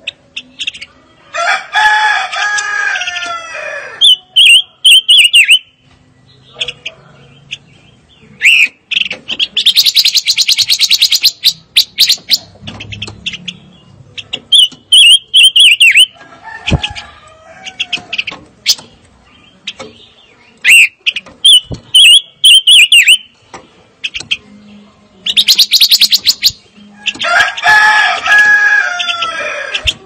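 Silver-eared mesia singing: short, quick whistled phrases repeated every few seconds, with bursts of rapid chatter between them. Two longer, lower drawn-out calls come in, one about a second in and one near the end.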